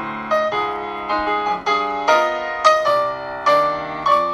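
Instrumental piano music, with notes and chords struck about every half second. It cuts off abruptly at the end.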